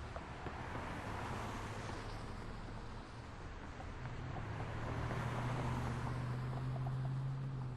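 City street traffic: a steady wash of passing cars with tyre noise swelling and fading twice, and a low engine hum that comes in and grows louder about halfway through.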